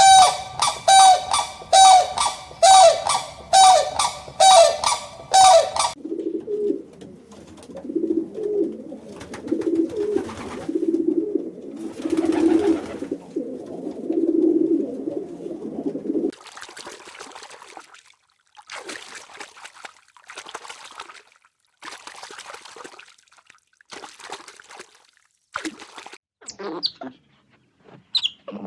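A run of animal calls: for about six seconds, short pitched calls about two a second, then about ten seconds of lower, wavering calls, then short breathy puffs about once a second, with a few high chirps near the end.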